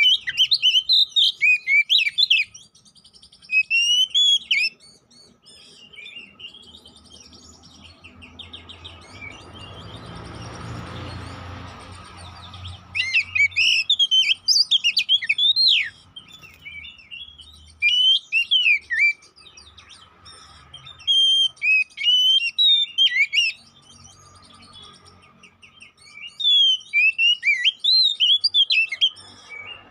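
Oriental magpie-robin (kacer poci) singing loud bursts of quick, varied chirps and whistles, several bursts of a few seconds each broken by pauses. A soft rushing noise fills the long pause in the middle.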